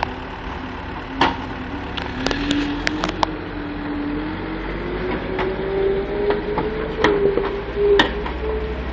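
Case 430 skid steer's diesel engine working hard while loading muck, its pitch climbing slowly as it revs up. Sharp clanks and knocks from the loader bucket, a cluster of them between about one and three seconds in and two more near the end.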